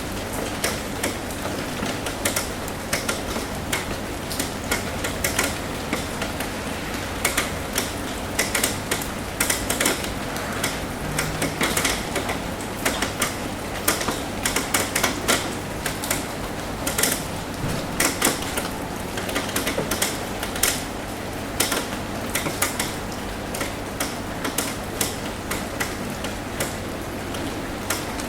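Rain tapping on a roof: many irregular sharp drips and taps over a steady patter.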